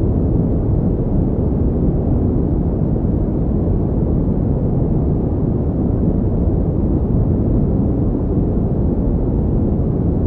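Steady pink noise, an unchanging deep hiss with most of its weight in the low end and little treble.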